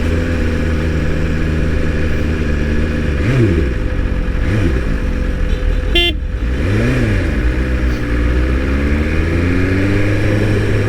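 Motorcycle engine running steadily while riding in traffic, its pitch rising and falling a few times. A short vehicle-horn toot comes about six seconds in.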